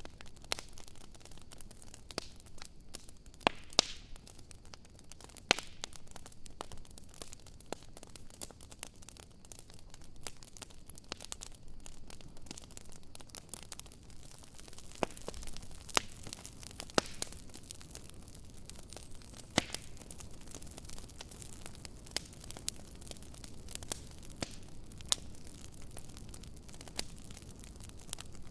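Wood campfire crackling: sharp pops and snaps scattered irregularly over a steady hiss of burning, a handful of them much louder than the rest.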